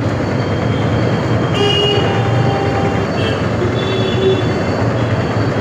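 Wind rushing over the microphone and the running noise of a motorbike moving through traffic, with faint vehicle horns sounding from about a second and a half in.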